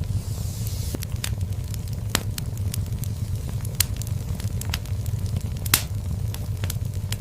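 Fire in a fireplace crackling, with irregular sharp pops over a steady low rumble of the flames and a faint hiss. One louder pop comes late on.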